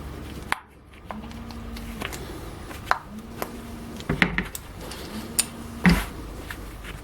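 Clicks and light knocks of a ball joint and tools being handled on a workbench while the rubber dust boot is fitted. The loudest knocks come about four and six seconds in. A short low hum recurs about every two seconds.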